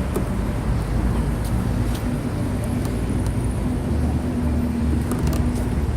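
Steady road-traffic noise: a continuous low vehicle rumble with a faint steady hum.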